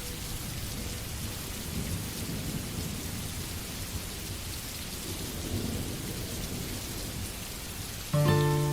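Steady rainfall with low swells of distant thunder rumbling. Near the end, plucked guitar music starts over the rain and is louder than it.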